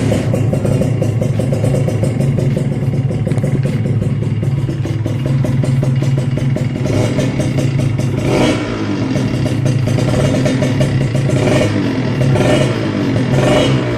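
Kawasaki Ninja RR two-stroke single-cylinder engine running through an RMG racing exhaust, fairly loud. It runs steadily at first, then from about halfway through is blipped several times, the revs rising and falling quickly.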